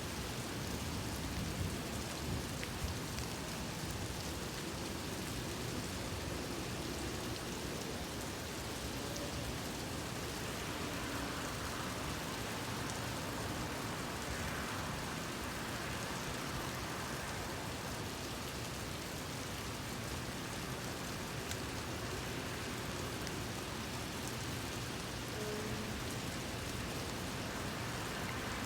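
Rain falling steadily in a thunderstorm, an even wash of rain noise.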